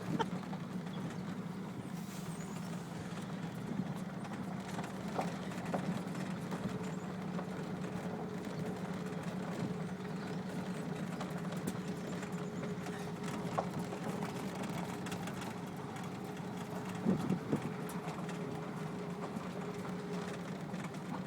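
Pickup truck running at a steady low hum, heard from inside the cab as it drives slowly. A few brief knocks and rattles come through, with a faint steady higher whine in the middle stretch.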